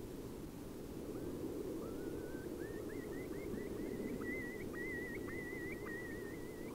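A bird calling: a run of short rising whistles that quicken and run together into a long wavering trill, over a steady low rumble.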